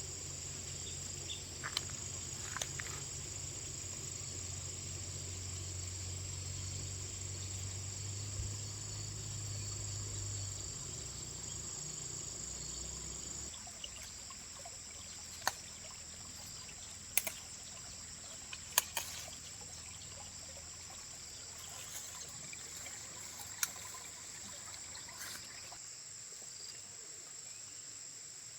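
Insects chirping steadily in a high, even drone, with a low hum underneath that stops about halfway through. Scattered sharp clicks and taps, loudest in the second half.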